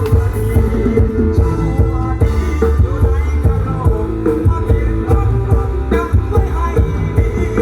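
Rock band music with guitar, bass and drums, with some singing.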